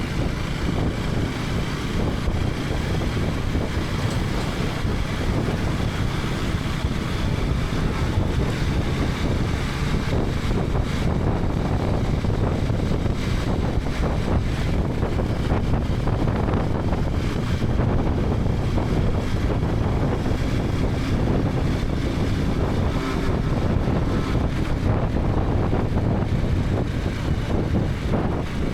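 Wind rushing over the helmet-mounted action camera's microphone, mixed with the KTM 250 Adventure's single-cylinder engine and road noise, running steadily while riding.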